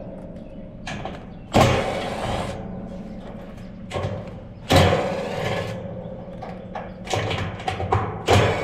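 Steady low hum of an air-conditioning condensing unit running after its contactor has pulled in, broken three times by loud sudden metallic clatters, each dying away over about a second, with smaller knocks between.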